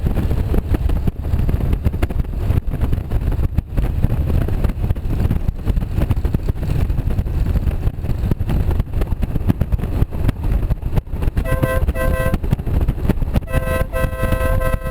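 Motorcycle underway, with engine rumble and wind buffeting the microphone. Near the end a vehicle horn sounds two short beeps, then a long steady blast.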